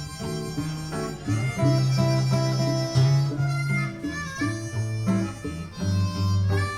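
Harmonica playing a slow melody over guitar chords and a bass line, an instrumental break in a country ballad.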